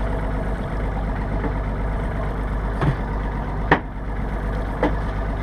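Boat engine idling steadily, with a few short knocks, the loudest about halfway through.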